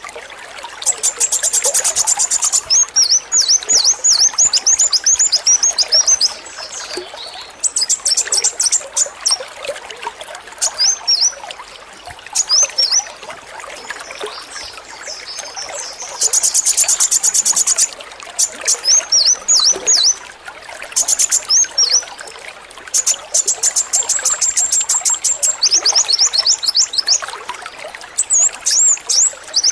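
Male kolibri wulung sunbird singing over steadily trickling water. It delivers repeated bursts of very high, rapid rattling trills, the 'AK-47' song, alternating with series of quick downward-swept notes.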